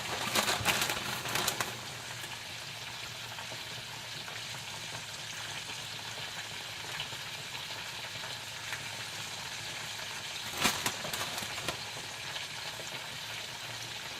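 Food sizzling steadily in a frying pan. A few sharp clatters come near the start and again about ten seconds in.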